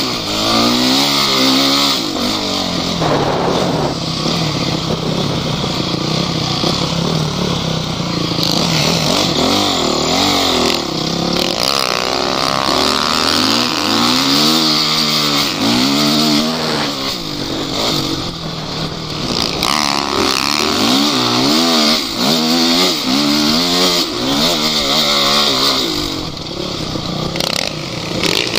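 Off-road vehicle engine under hard throttle, its revs rising and falling over and over as it works through rough terrain, with a steady hiss of noise over it.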